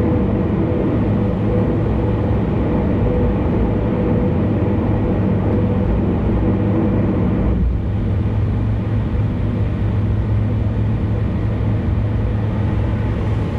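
Car driving at speed on an expressway: a steady drone of tyre and engine noise with a low hum. The higher hiss softens about seven and a half seconds in.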